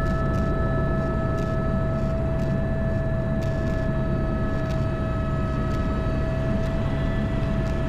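Airbus H125 helicopter's single turboshaft engine and rotor running, heard from inside the cockpit: a steady, heavy drone with a constant high turbine whine over it.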